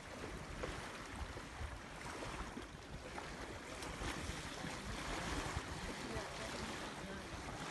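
Steady rushing wind noise on the microphone with open-air lakeshore ambience, an even noise with a low rumble throughout.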